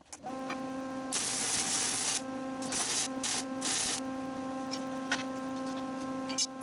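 Small Lincoln flux-core MIG welder welding steel: the arc crackles and hisses in two bursts of a second or so each, over the welder's steady electrical hum.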